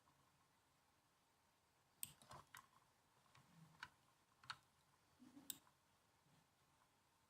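Laptop keyboard keys typed in a short, irregular run of faint clicks that starts about two seconds in and stops a little past halfway, with near-silent room tone around it.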